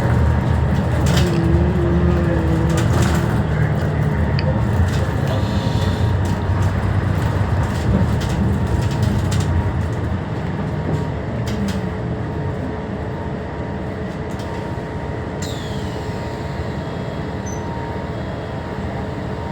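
Scania K320HB bus's diesel engine and road noise heard from inside the cabin while driving; the rumble eases off about halfway through as the bus slows. A brief falling high whine near the end.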